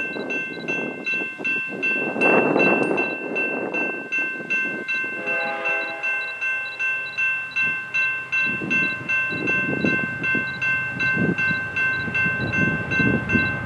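Railroad grade crossing bell ringing steadily at about three strokes a second. A short train horn blast sounds about five seconds in, and the rumble of the approaching train builds in the second half.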